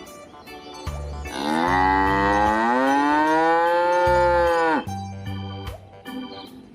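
Cow mooing: one long moo of about three and a half seconds, rising a little at the start and dropping off at the end, over background music with a steady beat.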